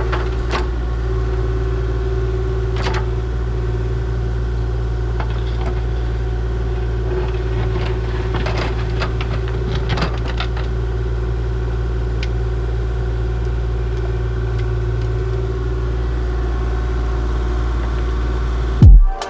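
Excavator engine running steadily, with scattered light clicks and knocks over the drone. Near the end it gives way to a brief loud burst and cuts off abruptly.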